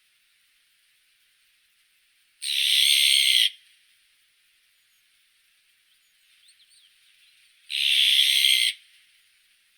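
Azure-winged magpie giving two harsh, noisy calls, each about a second long and about five seconds apart, with a few faint short chirps between them.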